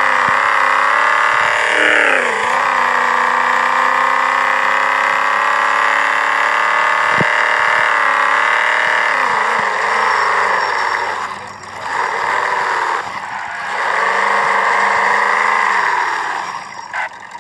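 Car engine heard from inside the cabin while driving, a steady engine note whose pitch dips and climbs again at gear changes about two seconds in and again around ten and sixteen seconds in.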